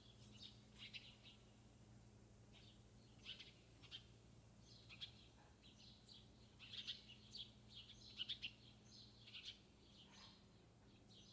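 Small birds chirping faintly: many short high chirps, thickest in the second half.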